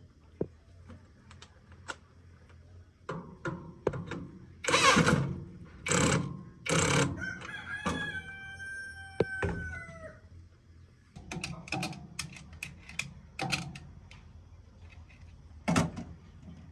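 A rooster crowing, its long drawn-out call falling slightly at the end, just after three short loud bursts of sound. Scattered sharp clicks and taps follow.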